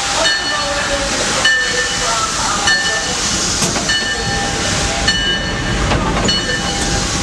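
Steam locomotive heard from inside its cab, moving slowly forward with a steady loud steam hiss. A short ringing tone comes back about every 1.2 seconds.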